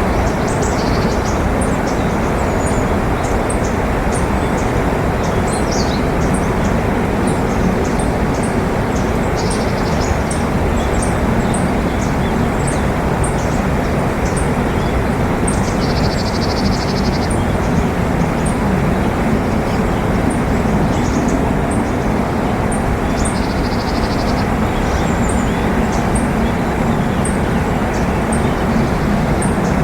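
Small birds calling over a loud, steady low rumble: short high chirps scattered through, with a buzzy trill about halfway and another a few seconds later.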